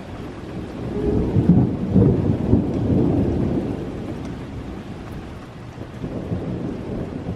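A long roll of thunder, building about a second in and dying away over several seconds, over steady rain.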